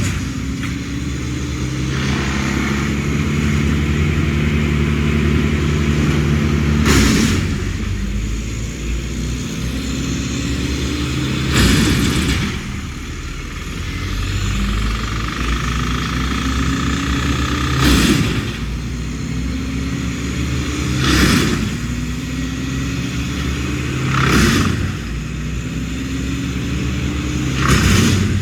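An engine running steadily, its pitch slowly climbing, broken every few seconds by a short loud whooshing surge.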